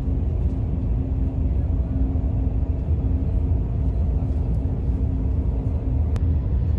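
Steady low rumble of a moving vehicle, road and engine noise heard from inside, with a faint steady hum.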